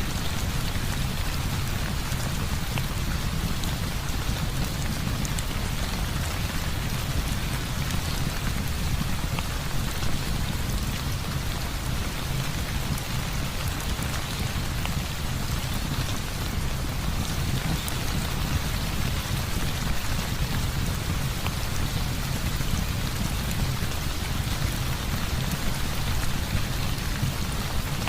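Heavy rain falling steadily, with a dense even hiss of drops and a constant deep low rumble underneath.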